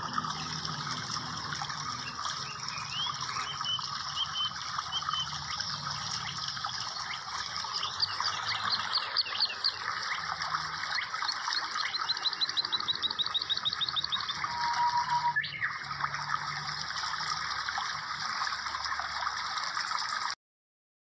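Outdoor ambience: birds chirping, with a fast trill of repeated notes a little past the middle, over a steady hiss. The sound cuts off suddenly near the end.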